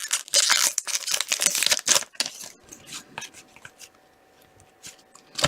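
Trading cards and a foil pack wrapper being handled: crinkling and rustling for about two seconds, then a few light clicks and slides of card against card.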